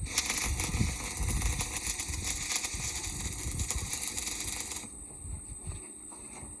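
Electric arc welding on a plough's metal part, the arc crackling and spitting steadily, then stopping about five seconds in as the weld bead breaks off.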